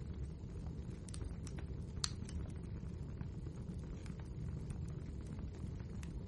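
Wood fire burning in a fireplace: a steady low rumble with scattered crackles and pops, the loudest pop about two seconds in.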